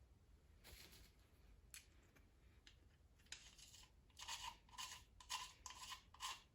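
Faint handling sounds, then a run of about six short metallic scraping strokes as a 3/8 set screw is screwed into a freshly tapped oil hole in an LS engine block to plug it.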